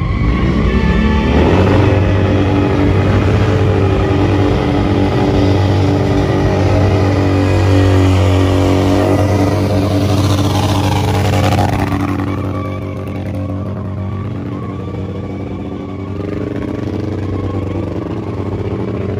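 Motorcycle engine running loud and held at high revs, then easing off about twelve seconds in.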